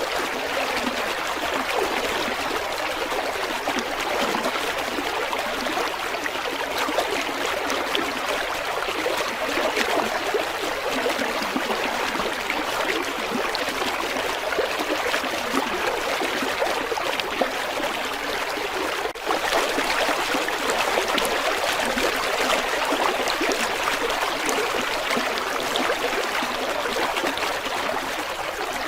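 River water flowing and trickling over stones: a steady rush with fine babbling splashes, broken by a brief dip about nineteen seconds in.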